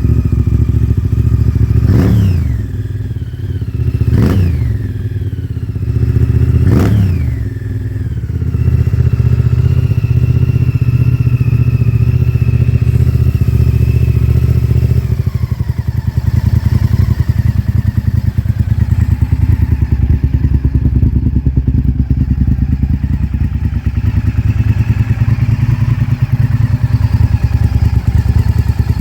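Honda VTR1000 V-twin through a Yoshimura aftermarket exhaust: three quick throttle blips in the first seven seconds, each rev rising and dropping straight back. It then runs steadily and settles about halfway through into a lower, loping idle.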